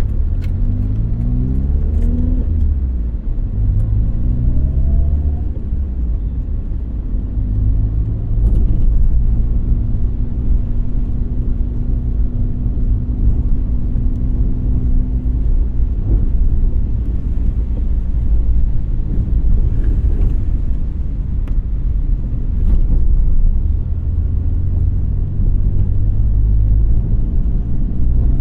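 A car's engine and road rumble while driving, the engine pitch rising in the first few seconds as the car accelerates, then holding a steady low rumble.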